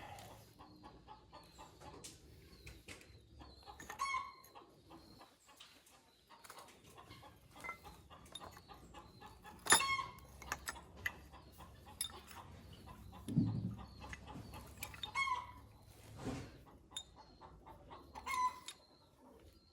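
Chickens clucking in a few separate short calls, with scattered clicks and a couple of dull knocks in between. The loudest sound is a sharp one about ten seconds in.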